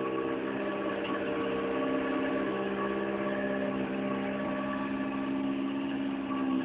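Honda B16 four-cylinder engine in a Civic idling steadily, running on its first start after being built.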